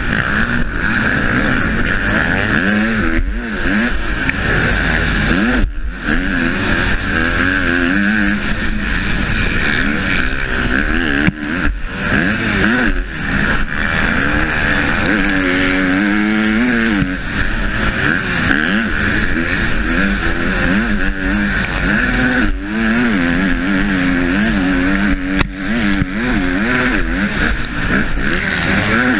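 Husqvarna motocross bike's engine revving hard and easing off over and over as the rider shifts and works the throttle around the track, heard close up from the rider's helmet camera with a steady rushing noise behind it. The engine briefly drops out a few times.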